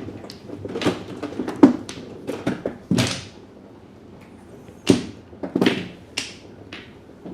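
Mahjong tiles clacking on the table as players draw and discard, in irregular sharp knocks with a lull near the middle.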